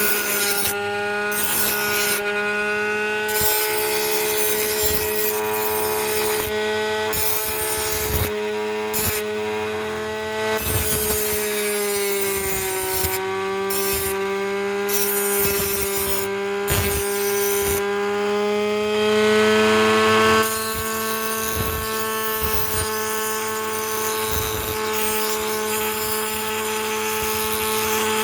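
Blender motor driving a homemade knife sharpener, running with a steady whine while a blade is rubbed and scraped against the spinning abrasive, with scattered clicks. The motor's pitch sags a little about twelve seconds in, as under load, and runs slightly higher and steadier after about twenty seconds.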